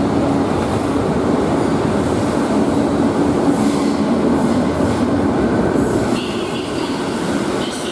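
Renfe Class 448 three-car electric multiple unit pulling out of an underground station and rolling past: a steady electric hum over rolling wheel noise, with short high squeals from the wheels. The sound drops a little about six seconds in as the last car goes by.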